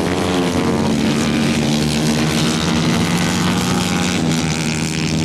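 125 cc racing engine running at high revs, its pitch holding fairly steady after climbing just before, with slight easing and picking up again.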